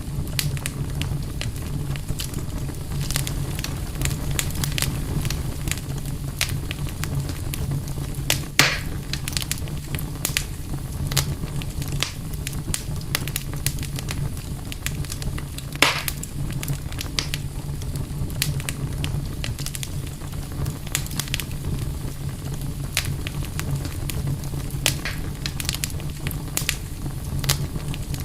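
Wood campfire crackling steadily with frequent small snaps, and two louder pops, one about a third of the way in and one just past the middle, over a steady low rumble.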